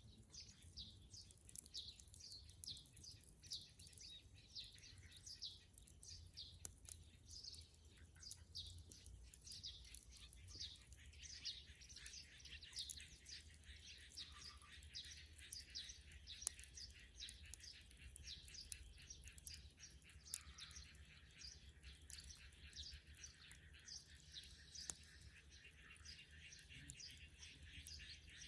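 Small birds chirping in a steady run, about two short calls a second. A dead-wood bonfire gives a few faint, sharp pops.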